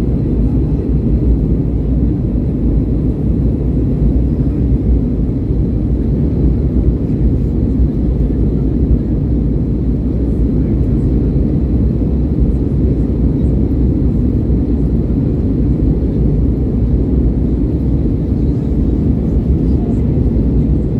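Steady low rumble of aircraft engine noise heard inside the cabin in flight.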